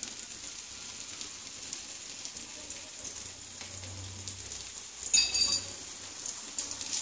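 Batter pancake frying in oil on a non-stick tawa: a steady, even sizzle, with oil just spooned around its edge. About five seconds in there is a brief clatter of a metal spoon against the pan.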